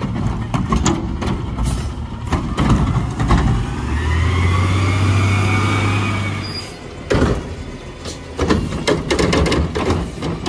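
Garbage truck at work: repeated metal knocks and clanks, and in the middle about three seconds of engine running harder with a rising whine.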